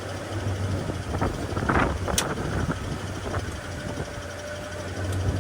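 Cummins diesel engine of a dump truck idling steadily just after a cold start. A few clicks and a sharp knock come about two seconds in.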